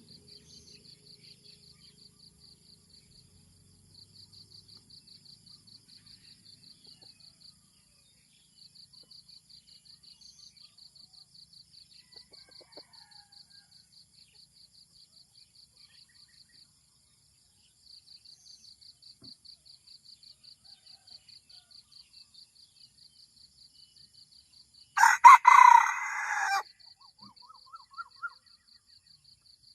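Red junglefowl cock crowing once near the end, a short loud crow, followed by a few soft short calls. Underneath, insects chirr steadily in fast pulses.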